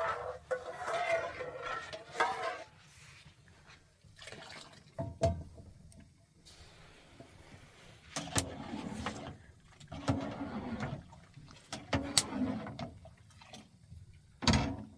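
Water sloshing and pouring in short bursts, each starting with a knock, repeating about every two seconds in the second half.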